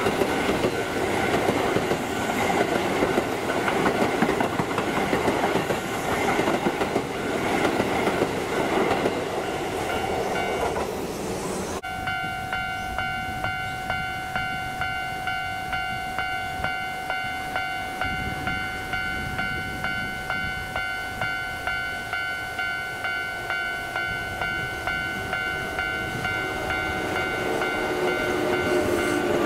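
A Keisei 3400-series electric commuter train passing close by, with heavy wheel-on-rail rumble. About twelve seconds in the sound cuts to an electronic ringing of several steady tones, pulsing about once a second, while a Keisei 3700-series train approaches and its running noise grows louder near the end.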